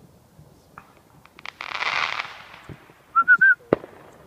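Fireworks going off: a few sharp cracks, then a loud hissing, crackling burst about two seconds in, followed near the end by three short high whistle-like chirps and a final crack.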